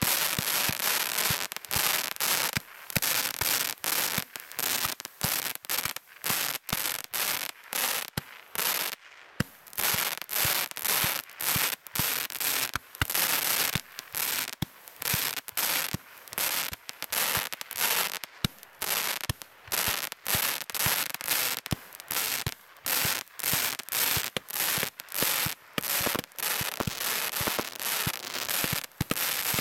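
Consumer fireworks going off one after another: a rapid run of sharp cracks and pops, a few a second, with hissing between.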